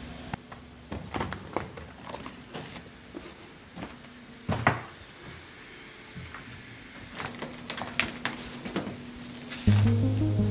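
Scattered knocks and clatter from work, one louder knock about halfway, over a faint steady hum; music comes in near the end.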